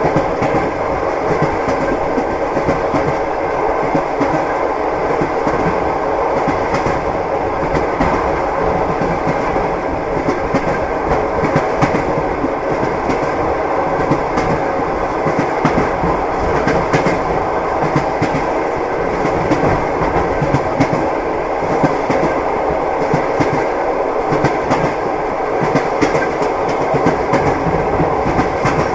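Train wheels clacking over rail joints, heard from inside a passenger compartment, over a steady rolling rumble.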